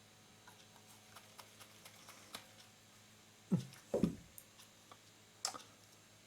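Small clicks and taps of a precision screwdriver and tiny screws being fitted into the front of a lens barrel. Two louder brief sounds that fall in pitch come just past the middle, and a sharp click comes near the end.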